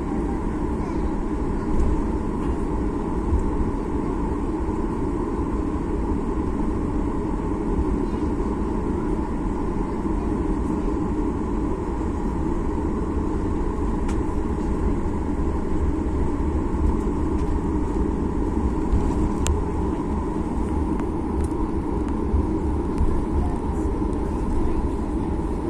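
Steady cabin noise inside a Boeing 737 MAX 8: a low rumble and hum from its CFM LEAP-1B engines with an even hiss, holding the same pitch and level throughout. A faint click sounds near the end.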